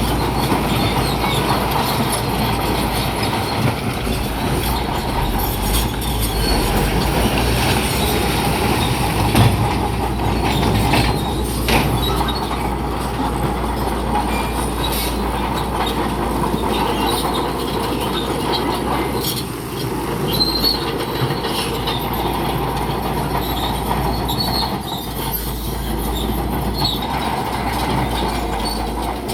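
Crawler bulldozer working: its diesel engine running steadily under the clank and squeal of its steel tracks, with scattered knocks and high squeals throughout.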